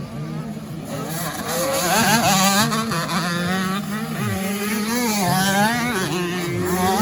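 Several 85 cc two-stroke motocross bikes racing, their engines revving up and down with overlapping pitches, getting louder about a second in.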